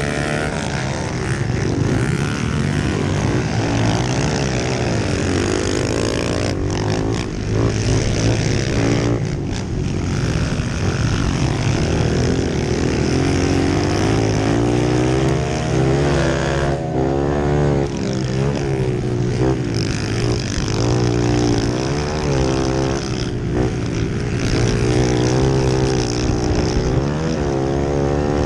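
Pit bike engine running hard, its pitch rising and falling over and over as it is revved up and backed off.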